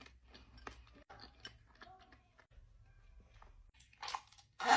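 Close-miked chewing of a baked dessert: small moist mouth clicks and light crunches. Near the end comes a louder breathy sound, an exhale or 'mm'.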